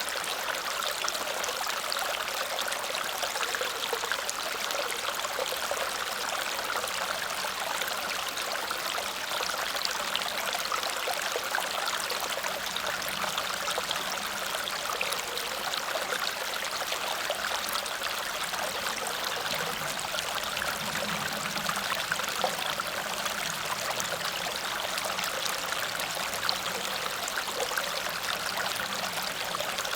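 Water cascading over a small waterfall: a steady, even rush with a splashing, trickling texture.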